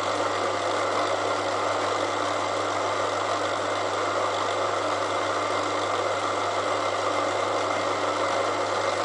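Elliott Omnimill 00 milling machine running steadily, its cutter taking a spring cut across the steel of a railway-rail anvil: a light repeat pass at the same setting to clean up the face.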